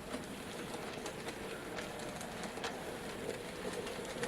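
N gauge model Class 5MT locomotive and its passenger coaches running round a layout: a steady faint motor hum with light scattered clicks from the wheels on the track.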